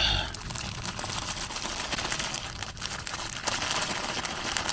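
Plastic food packaging crinkling and rustling as a pack of udon noodles is handled and opened, in dense irregular crackles, loudest at the very start.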